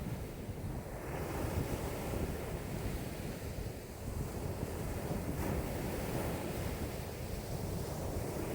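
Wind-driven lake waves washing and lapping, with strong wind buffeting the microphone as a low rumble.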